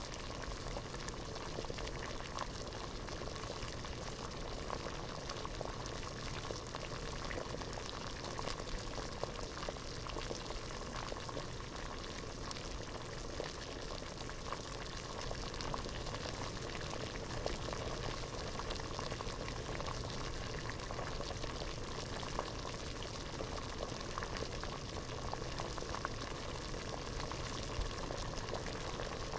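A pot of water at a rolling boil, bubbling steadily with a dense patter of small pops and gurgles.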